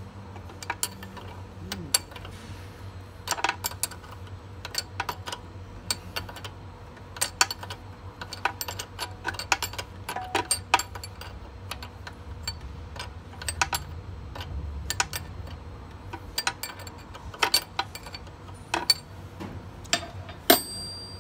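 Irregular metallic clicks and taps of a 16 mm wrench working a hydraulic hose fitting on a wheelchair lift, with one louder ringing clink near the end, over a low steady hum.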